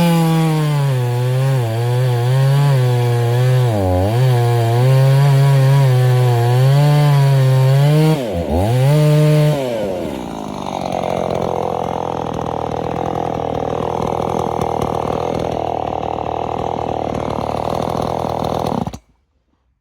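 Husqvarna Rancher 50 two-stroke chainsaw running at high revs, with its pitch dipping twice under load as it cuts wood. About halfway through the sound turns rougher and less clearly pitched, then cuts off abruptly near the end.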